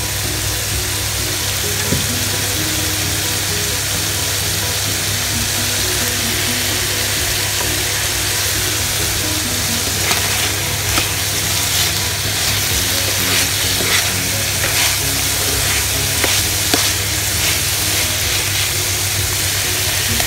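Chicken and mixed vegetables sizzling steadily in a non-stick pan. From about halfway through, a spatula stirs them with short scrapes and knocks against the pan.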